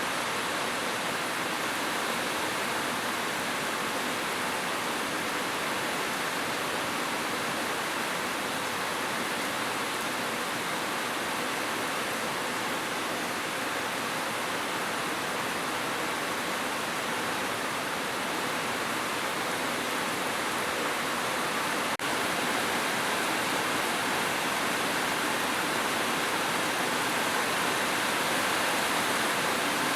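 Heavy rain falling steadily on a roof, a dense even hiss with no thunder, broken only by a tiny click about two-thirds of the way through.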